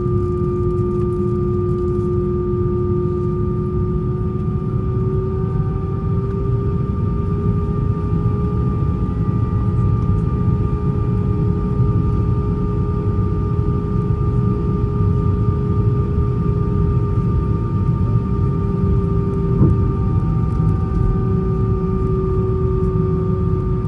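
Cabin sound of an Airbus A320 taxiing with its jet engines at idle: a steady low rumble under a constant whine whose pitch rises a little a few seconds in and eases back near the end.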